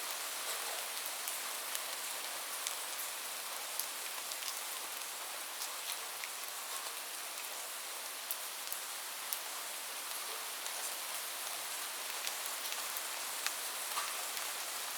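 Steady rain falling, a continuous hiss with scattered drops ticking.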